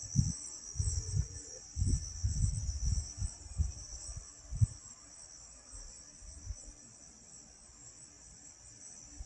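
Crickets chirring steadily in a high, continuous band. Irregular low rumbles come and go over the first five seconds and then die away.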